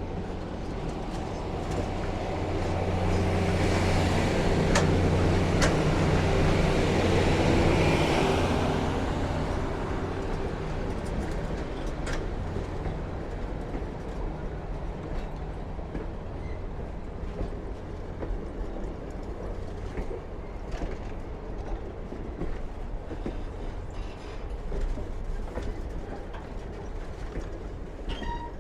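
Excursion train pulling slowly into a station, its passenger cars rolling past with wheels clicking over rail joints. A low, steady hum is loudest from about three to nine seconds in, then eases off.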